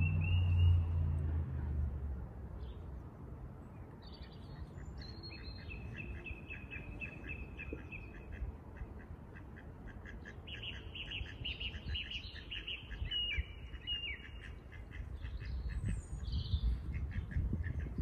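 Birds calling: several runs of rapid, evenly repeated short calls, with a few brief higher whistled notes in between. A low rumble is loudest in the first couple of seconds.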